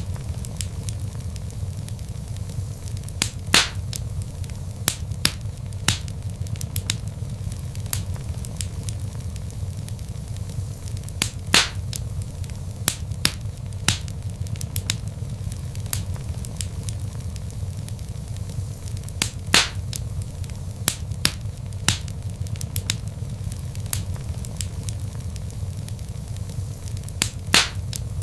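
Log fire burning in a fireplace: a steady low rumble of flames with frequent small crackles, and a louder pop about every eight seconds.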